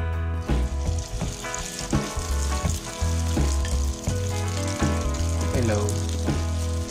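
Corned beef and beef loaf patty mixture sizzling in hot cooking oil as spoonfuls are dropped into the pan to shallow-fry. The sizzle starts within the first half second.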